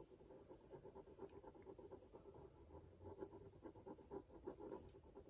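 Faint scratching of a fine-tipped black pen on paper in many quick, short strokes as it fills in small areas.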